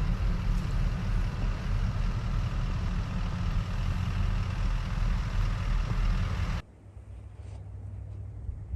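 A van's engine running with a steady low rumble and hiss. It cuts off abruptly about six and a half seconds in, giving way to a much quieter low rumble.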